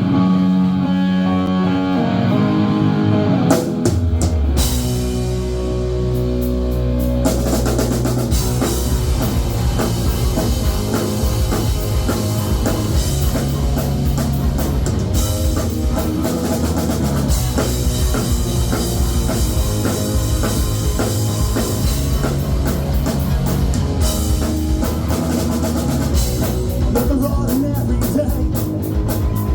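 Rock band playing instrumentally: a guitar intro, then drums and bass come in about four seconds in, and the full band plays on from about seven seconds.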